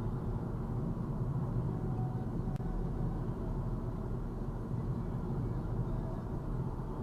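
Steady road and engine rumble of a moving car, heard from inside the cabin, with one faint click about two and a half seconds in.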